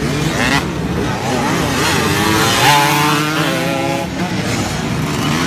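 Motocross bike engines revving, their pitch climbing and falling with the throttle; the longest climb comes around the middle, holds for about a second, then drops.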